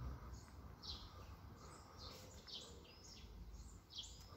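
Faint birdsong: short, high chirps sliding downward in pitch, a couple each second at uneven spacing, over a low steady background rumble.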